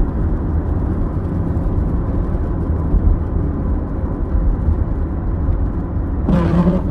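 Car interior road and engine noise while driving: a steady low rumble.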